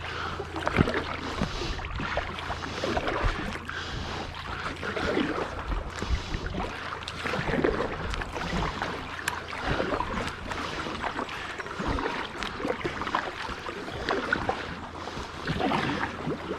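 Water splashing and lapping around a small boat moving on a river, over a steady low hum.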